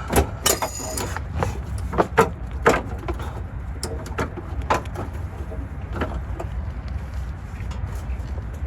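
Sharp metal-on-metal clanks and knocks from hand tools at work on a truck's undercarriage, about ten strikes spread unevenly, one of them a ringing clang about half a second in. A steady low rumble runs underneath.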